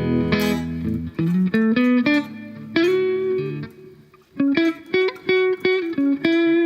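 Electric guitar played through a Behringer GDI21 amp-modelling preamp on its tweed amp model with the drive low: a chord rings at the start, then a single-note lick of picked notes, with short clipped notes in the second half.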